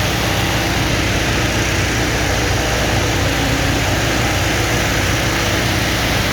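Engine-driven dewatering pump running steadily, pumping floodwater out of a flooded basement: a constant engine hum with a steady rushing noise over it.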